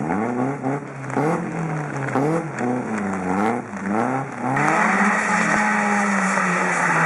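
Rally car engine revving hard, its pitch climbing and dropping quickly several times as the driver works the throttle and gears. About four and a half seconds in it settles into one long, held pull, with a loud hiss of road and tyre noise over it.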